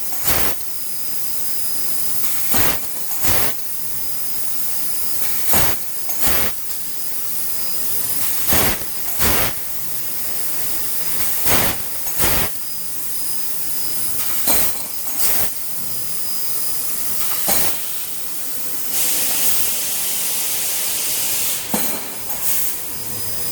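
Laser cutting machine cutting metal: a steady hiss of assist gas with a faint high whine, broken about every three seconds by a pair of sharp short bursts, and a louder stretch of hiss near the end.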